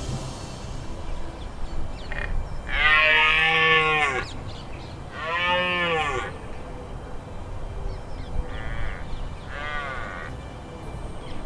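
Rutting red deer stag bellowing: a series of calls, each rising and falling in pitch, the two loudest about a second long each a few seconds in, then two fainter ones near the end.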